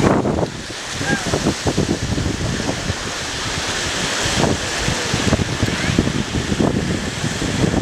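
Sea surf washing on a sandy beach with wind buffeting the microphone.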